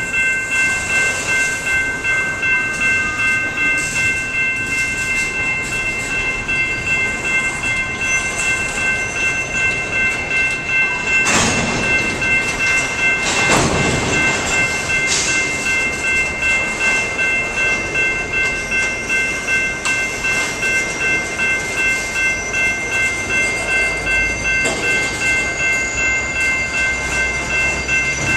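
Railroad grade-crossing bells ringing steadily, about two strokes a second, while a train rolls through, with a few sharp metallic clanks around the middle.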